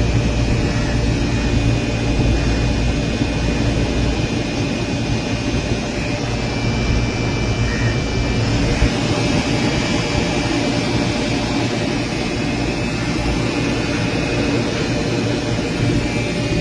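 HVAC equipment running steadily: a loud, even whoosh of moving air over a low hum, with a few faint steady tones.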